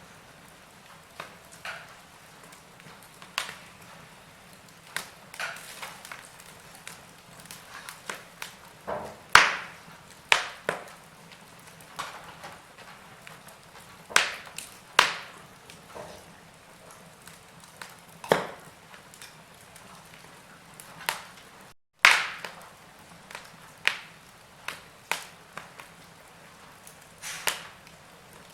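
Wood fire in a fireplace crackling, with irregular sharp pops of varying loudness over a faint steady hiss. The sound cuts out for an instant just before one of the loudest pops, about two thirds through.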